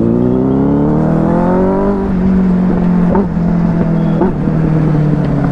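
Benelli 600i motorcycle engine under way, its pitch climbing for about two seconds as the bike accelerates and then holding steady at cruising speed.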